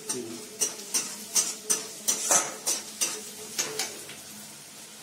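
Chopped onions and masala sizzling in hot mustard oil in a steel kadhai, being fried until lightly browned, while a metal spatula scrapes and clinks against the pan about ten times, roughly three strokes a second. The stirring stops about four seconds in and the sizzle carries on.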